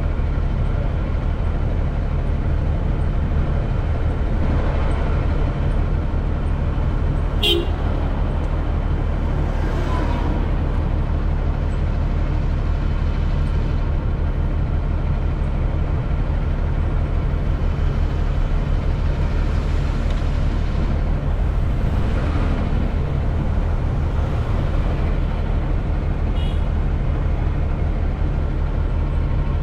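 Steady, heavy engine drone of idling and passing vehicles and road machinery, with vehicles swelling past several times. A short, high tone sounds about seven seconds in, like a vehicle horn toot.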